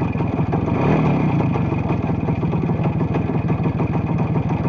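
Voskhod-3M motorcycle's single-cylinder two-stroke engine idling steadily.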